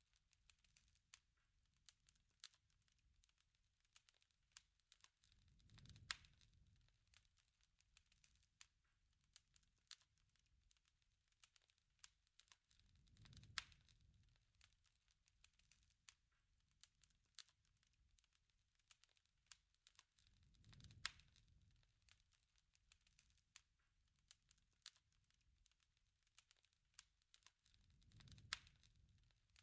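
Wood fire crackling faintly, with scattered sharp pops and a low rushing swell that comes back about every seven and a half seconds, four times.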